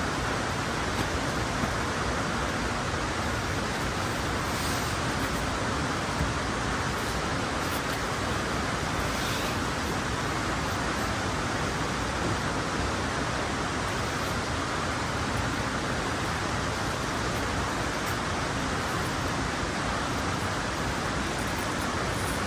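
Mountain stream rushing in a steady, even flow, with a few faint clicks in the first seconds.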